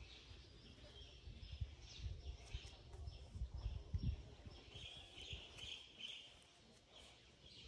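Birds chirping among the trees in short scattered calls, over low rumbling and a few dull thumps that are loudest about four seconds in.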